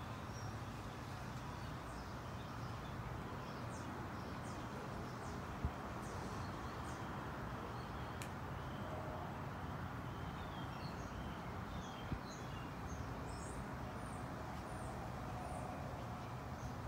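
Small birds chirping in short, high, quick notes, scattered and busier in the second half, over a steady low outdoor background noise. Two brief sharp clicks stand out, about six and twelve seconds in.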